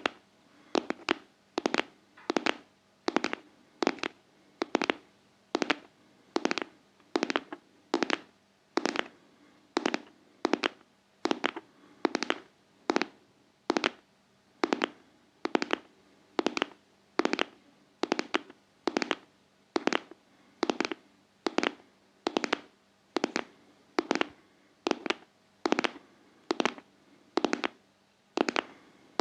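ASMR heart-tapping: close-up fingertip tapping in quick groups of two or three taps, repeating steadily a little more than once a second.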